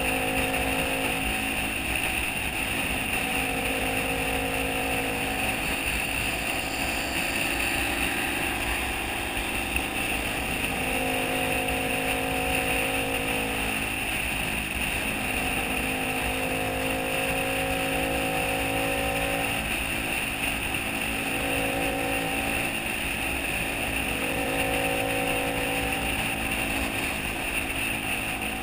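Motorcycle engine running at a steady cruise with road and wind noise, its pitch shifting a little now and then as the throttle changes.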